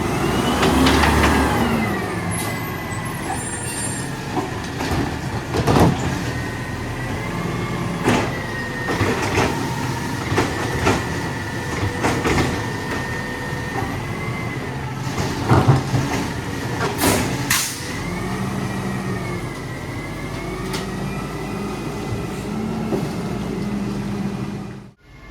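Mack LR garbage truck with a Labrie Automizer side-loader body working as it collects recycling: the engine revs up and down under hydraulic load, with a high hydraulic whine rising and falling. Several sharp bangs and clunks come from the arm and the dumped material, the loudest about six seconds in and again around fifteen to seventeen seconds in.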